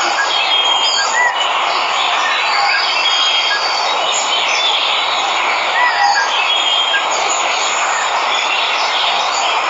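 Waterfall noise, a steady rush of falling water, with jungle birds chirping and whistling over it in short, scattered calls.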